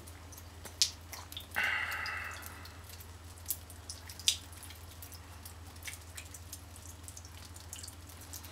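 Water dripping in scattered, irregular drops, with a short hiss just under two seconds in and a steady low hum underneath.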